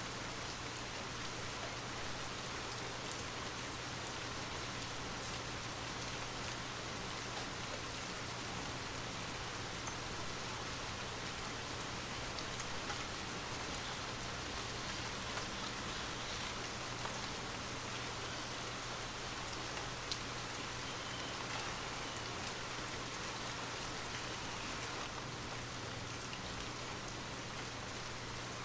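Steady rain falling on a surface, with scattered drops ticking now and then over an even hiss.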